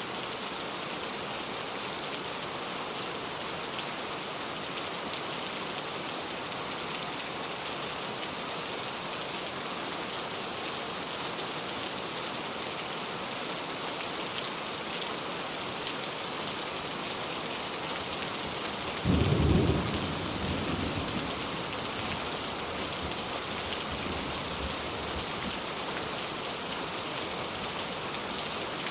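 Heavy rain pouring steadily. About two-thirds of the way through, a low clap of thunder, the loudest moment, rumbles away over the next couple of seconds.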